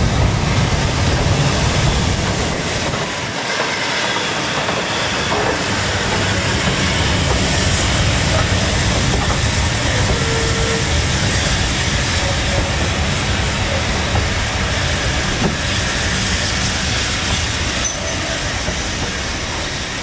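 Steam-hauled train running on the line: a steady rumble and clatter of wheels on rails, with some hiss.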